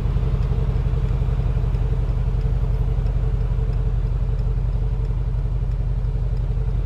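Mercedes-AMG G63's 4.0-litre twin-turbocharged V8 idling steadily with an even low rumble.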